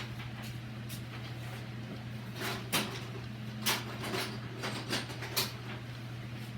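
Tools being picked up and handled, giving several short sharp clicks and light knocks about a second apart from the middle on, over a steady low hum.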